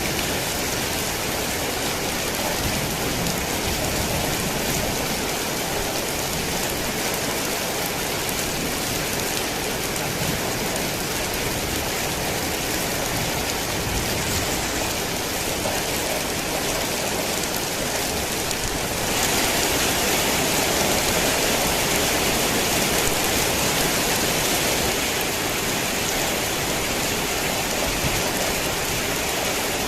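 Heavy rain falling steadily, an even hiss of drops on surfaces. It grows a little louder and sharper for several seconds about two-thirds of the way through, then settles back.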